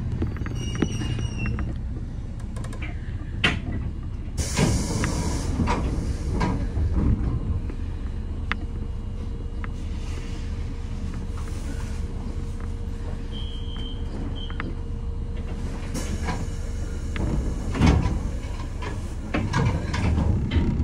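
Kotoden electric train standing at a station: a steady low hum from its equipment, with scattered clicks and knocks, a short hiss of air about four seconds in, and louder knocks near the end.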